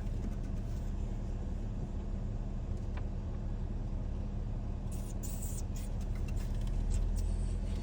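A car's engine running, heard from inside the cabin as a steady low hum. There is a faint click about three seconds in and some brief hissing or rustling about five seconds in.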